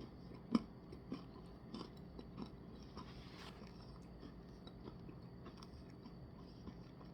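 Faint mouth sounds of someone chewing a spoonful of soft-serve ice cream with frosted animal cookie pieces. A sharp click about half a second in is followed by a few softer clicks over the next two seconds.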